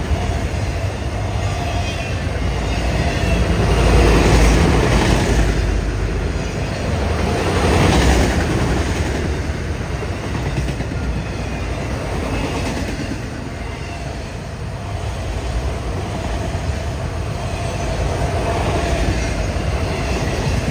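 Autorack freight cars rolling past at speed: a continuous rumble of steel wheels on rail with a clickety-clack rattle, swelling louder about 4 and again 8 seconds in.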